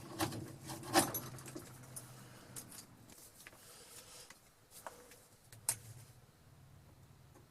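Scattered light clicks and knocks of metal and wood as the hand drill and auger bits are handled, with a faint low whir in the first couple of seconds.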